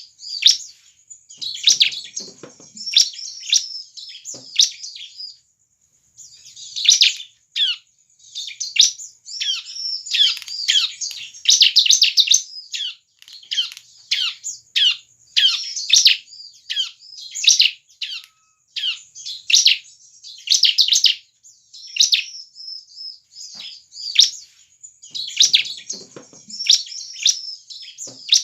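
Ciblek (bar-winged prinia) singing vigorously: rapid bursts of high, sharp chirps and trills, one after another with brief pauses.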